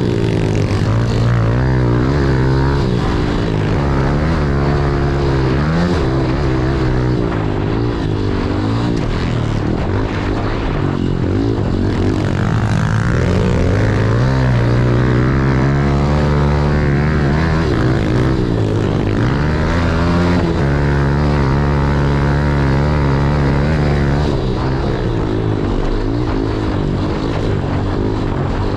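Small single-cylinder four-stroke pit bike engine, a modified race bike, revving hard and dropping back again and again under racing throttle and shifts. The pitch climbs and falls in repeated sweeps, with brief drops off the throttle every few seconds.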